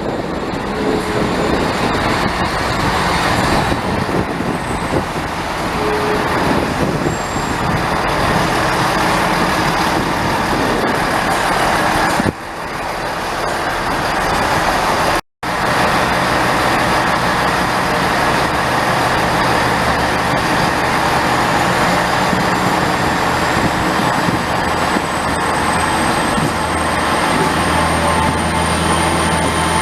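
A train running past or through the station: a steady, loud mix of engine and wheel noise, with a faint high whine slowly rising in the second half. The sound cuts out for an instant about halfway through.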